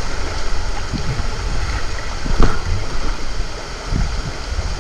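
Steady outdoor water noise with wind rumbling on the microphone, and one sharp knock about two and a half seconds in.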